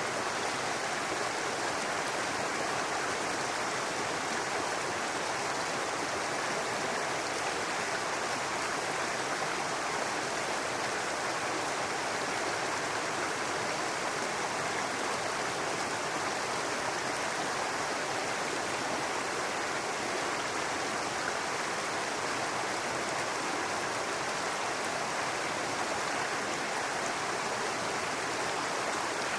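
A babbling brook: water running steadily over stones, an even rushing sound with no breaks.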